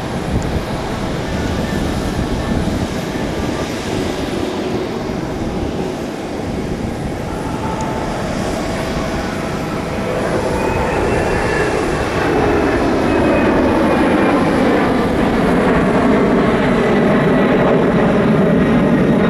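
Boeing KC-46A tanker's twin turbofan engines: jet noise with a steady whine, growing louder from about halfway through as the aircraft flies its display.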